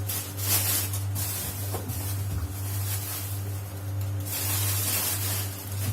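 Hissing, splashy water noise from a cooking pot on the stove as it comes toward the boil. It comes in two stretches, near the start and again near the end, over a steady low hum.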